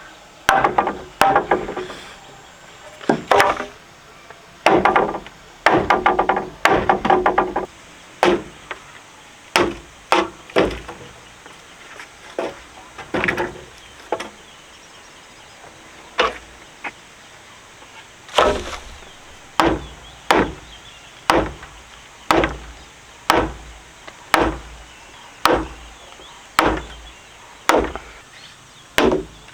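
Repeated chopping, a blade striking wood: quick flurries of blows at first, then single steady strokes about once a second.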